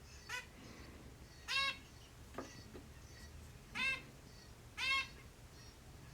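Zebra finch giving four arched, nasal calls spaced one to two seconds apart, the first one short; faint soft chirps lie between them.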